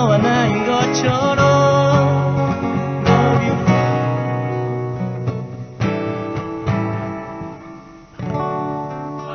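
Acoustic guitars playing the closing bars of a song, a sung note trailing off in the first second or so. The chords fade, and a last strummed chord about eight seconds in is left to ring.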